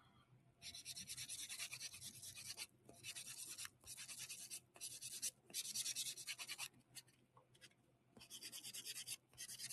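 Nail buffer rubbing across a polished fingernail in rapid back-and-forth strokes, in runs of a second or two with brief pauses. It is a light buff that dulls the shine so chrome powder won't stick to the background colour.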